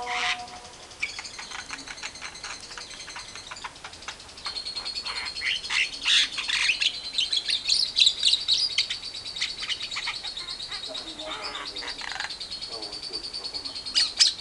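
Caged birds chattering: long runs of rapid, high chirps that grow loudest from about four seconds in and again near the end.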